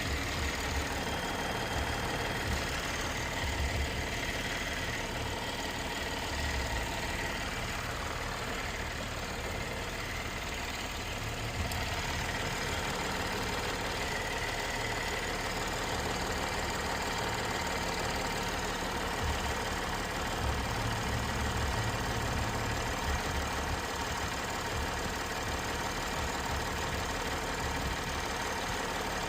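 A Chevrolet Camaro's GM V6 engine idling steadily with the hood open.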